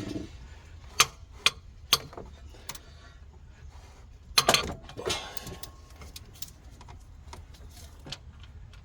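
Sharp metal-on-metal taps and clinks of hand tools on the engine's camshaft hardware. There are four single taps, then a louder cluster about halfway through, and a hit that leaves a brief metallic ring.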